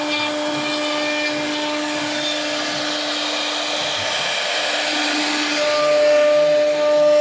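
A high-speed power-tool motor whining at one steady pitch, with a harsher hissing noise that swells in the middle and eases off near the end.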